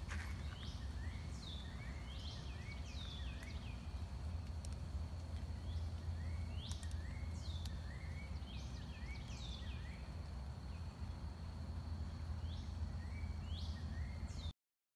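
Birds calling again and again, short whistles that fall sharply in pitch, each followed by a softer lower chirp, over a steady low background rumble and a faint steady high tone. The sound cuts off suddenly near the end.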